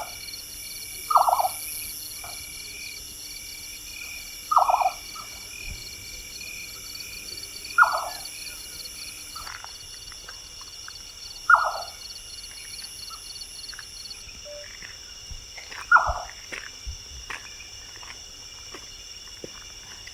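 A nightjar calling at night: short, quavering single notes repeated every three to four seconds, over a steady high trilling of night insects.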